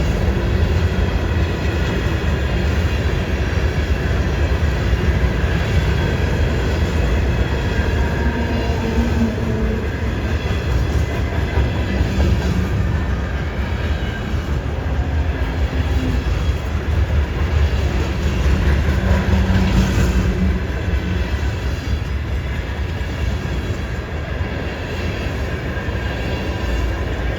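Freight train cars rolling past on a curve, a steady rumble of wheels on rail with faint, wavering wheel squeal in places.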